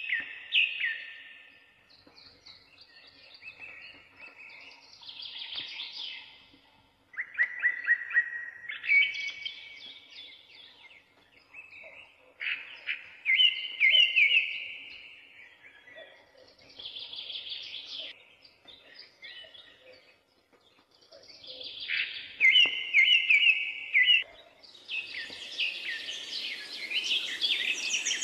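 Birds singing: short whistled and trilled phrases every second or two, with a busier, higher chirping chorus building near the end.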